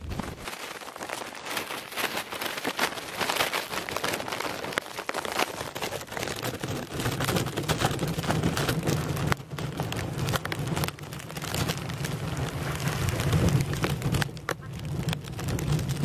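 Rain falling, with many close drop impacts. From about seven seconds in, wind adds a low rumble on the microphone.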